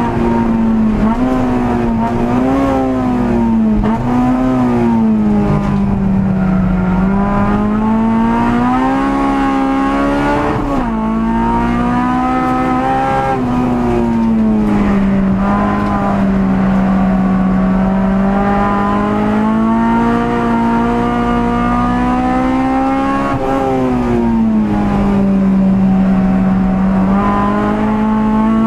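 Honda Civic EG6's VTEC four-cylinder engine under race load, heard inside the cabin. Its note climbs under throttle and drops sharply at gear changes, several times, then falls away more slowly into corners.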